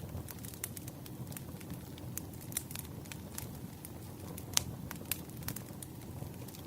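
Wood fire crackling: scattered sharp pops over a low, steady rumble of burning logs, with one louder pop about four and a half seconds in.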